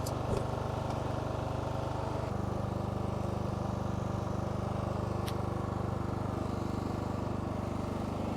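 Riding lawn mower's small engine running steadily at idle, its pitch shifting slightly about two seconds in.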